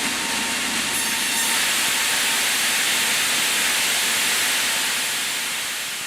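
Multi-rip saw line cutting a square cant into boards: a steady, even hissing rush of blades through wood that swells up and fades away near the end.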